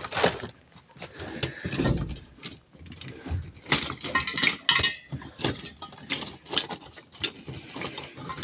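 Hard objects clattering and clinking as someone rummages through them, a string of irregular knocks and clicks.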